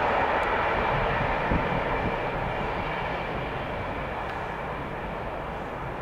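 Freight train of flat wagons rolling away over the tracks, a steady rumble that slowly fades as it recedes.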